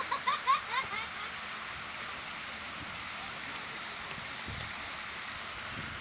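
A quick run of short, rising, chirpy calls in the first second, then a steady rushing noise.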